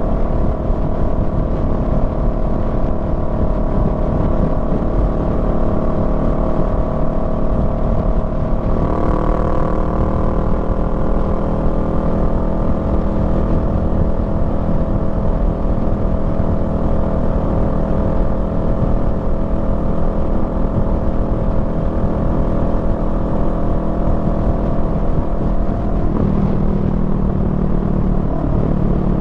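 Honda Rebel 500's 471 cc parallel-twin engine running steadily under way, with road noise beneath it. The engine note changes about a third of the way through and again near the end.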